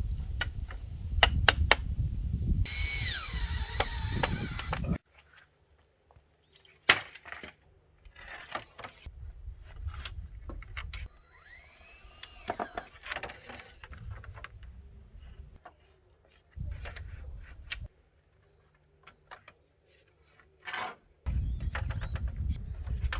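Sharp knocks, taps and clatter of building work on wood and bamboo, in several short cut-together stretches whose background changes abruptly.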